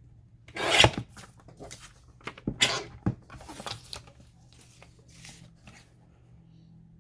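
Paper craft pieces rustling and rubbing as they are handled and sorted, in several short bursts, the loudest about a second in and again near three seconds.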